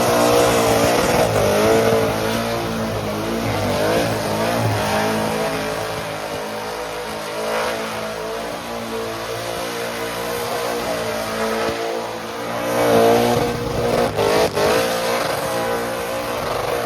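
Truck engine held at high revs during a burnout, its pitch wavering up and down as the revs bounce. It swells louder about 13 seconds in, with a few sharp cracks just after.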